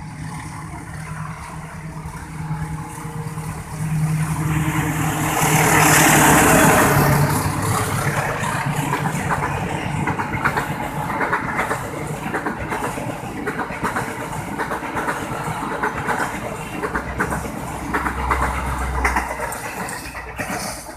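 A train passing close by. A locomotive engine hums steadily and is loudest about six seconds in. After that the cars rattle past with a stream of clicks and knocks from the wheels.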